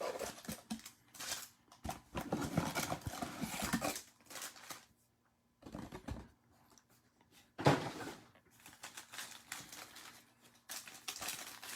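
Trading cards and foil pack wrappers being handled: irregular bursts of rustling, crinkling and light card-on-card clicks, with a couple of brief quiet pauses.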